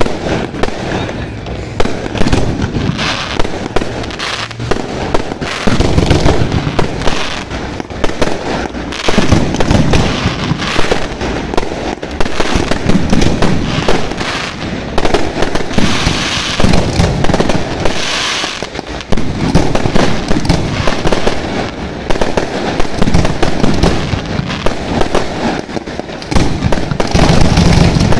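Fireworks display at full intensity: a dense, unbroken barrage of bangs from shells bursting overhead, mixed with crackling from glittering stars, which swells twice about two-thirds of the way through.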